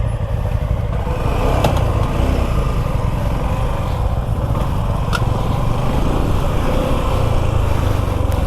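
Suzuki V-Strom 250 SX's single-cylinder engine running steadily under way while the motorcycle is ridden.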